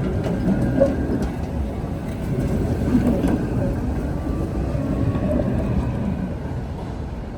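Tatra ČKD tram running: a steady rumble and rattle of wheels and traction equipment.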